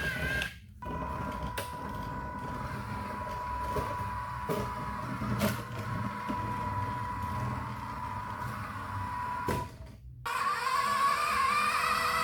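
Small electric motor of a toy RC car running with a steady high whine, over a low mechanical rumble and a few clicks and knocks.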